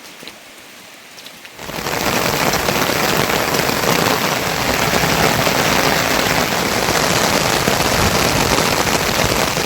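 Heavy monsoon rain pouring down as a dense, even hiss. It starts abruptly about a second and a half in, after a quieter stretch.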